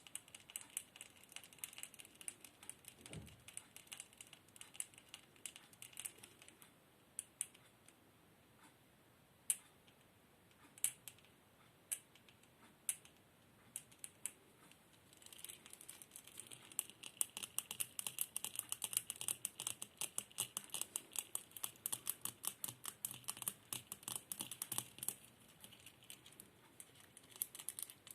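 Rapid light tapping clicks, close to the microphone. They are dense at first, thin to a few scattered clicks for several seconds in the middle, then pick up again into a dense patter.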